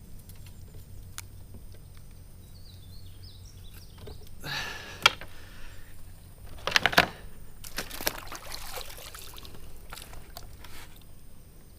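Water splashing and trickling in a few short bursts, with scattered sharp clicks and knocks.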